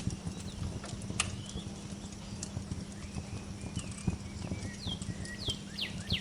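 Wood fire crackling with irregular sharp pops over a steady low rumble, while small birds give short downward-sliding chirps, several of them near the end.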